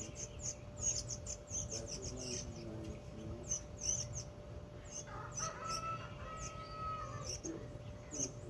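Small songbirds chirping over and over in short, high chips. From about five seconds in, a rooster crows once in the background in a long drawn-out call.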